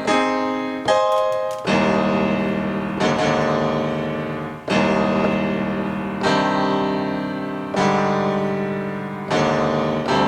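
Piano-like chords played from a Maschine Studio controller's pads in keyboard mode with chords switched on, so each pad press sounds a full chord such as a 1-3-5 triad. A new chord is struck about every one and a half seconds, and each one rings and fades before the next.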